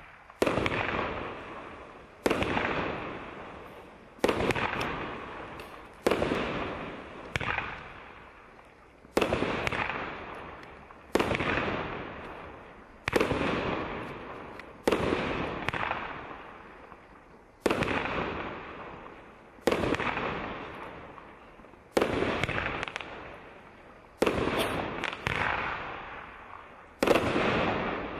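Piromax Fireball 16-shot, 30 mm fireworks battery firing: a sharp bang about every two seconds, each followed by a long fading rumble.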